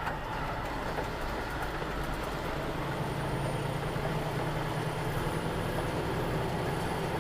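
Steady running noise of a road vehicle, engine hum under road and wind noise, the hum growing a little stronger about two and a half seconds in.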